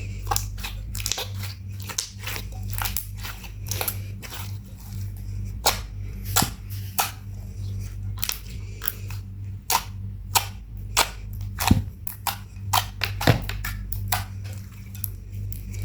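Slime being kneaded and pressed by hand, giving a long run of irregular sharp clicks and pops, a few louder ones near the end.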